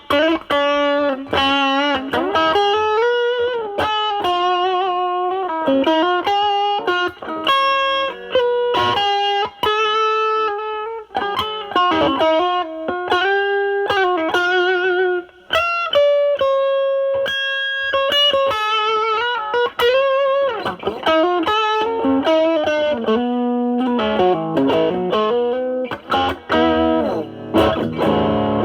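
Semi-hollow electric guitar through a bass-cut-modded Nobels ODR-1 overdrive pedal, drive at about twelve o'clock, into a Marshall Valvestate's clean channel, giving a mildly driven tone. It plays single-note lead lines with vibrato and bends, holds one long note a little past halfway, and strums chords near the end.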